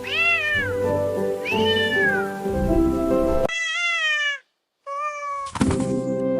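A cat meowing four times, each meow rising then falling in pitch, over background music that drops out briefly about halfway through.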